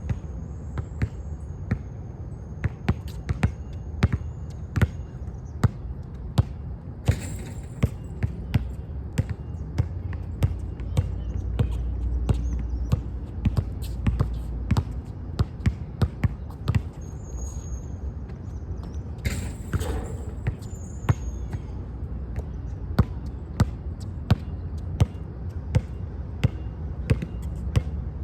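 Basketball bouncing on a court again and again during shooting practice: sharp, irregularly spaced bounces, sometimes in quick runs of dribbles. Two longer, noisier crashes stand out, about seven and nineteen seconds in.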